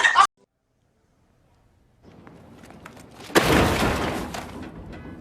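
A sudden loud crash about three and a half seconds in, fading out over about two seconds, after a short silence.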